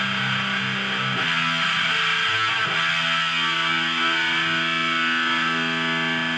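Electric guitar played through an MXR Sub Machine fuzz pedal, heavily distorted. A couple of note changes in the first three seconds, then a chord held and left to ring.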